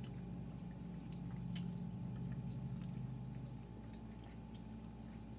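Chewing and small wet mouth clicks of people eating pizza and chicken wings, over a steady low hum.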